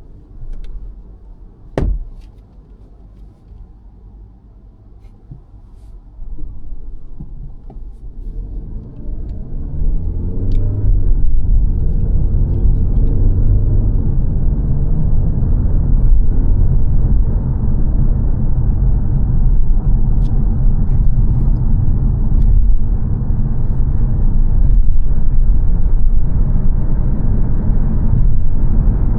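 Cabin sound of a 2022 Mazda 3 saloon: quiet at first, with a single sharp knock about two seconds in. The engine note then rises as the car accelerates up to motorway speed and settles into a steady rumble of engine and road noise.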